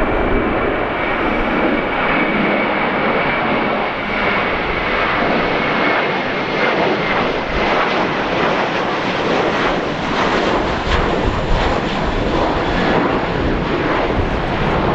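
Jetstar Airbus A320 jet engines running loud and steady during a go-around, the power applied as the airliner abandons its landing in strong wind. A high whine falls slightly in the first few seconds, and the sound turns rougher and crackling in the second half.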